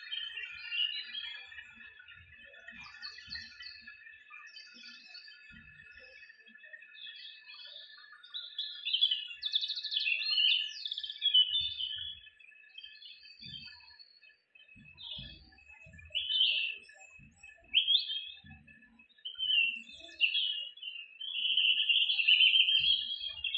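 Small birds chirping and twittering in short calls, quick trills and rising and falling sweeps, over a faint steady high-pitched tone.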